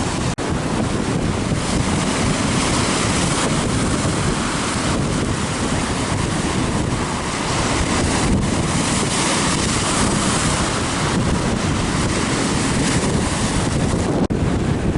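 Strong blizzard wind blowing hard across the microphone, a steady dense rush of noise, broken by two momentary dropouts, one just after the start and one near the end.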